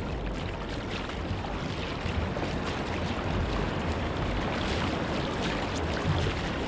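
Steady wind noise on the microphone with ocean water washing and splashing around a kayak.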